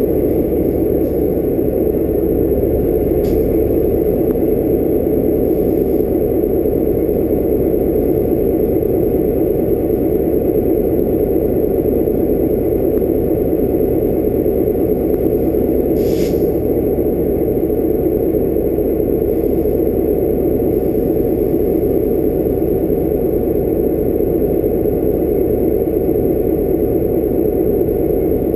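Steady mechanical drone of a stationary train idling, unchanging throughout, with a faint click about three seconds in and a brief sharp tick about sixteen seconds in.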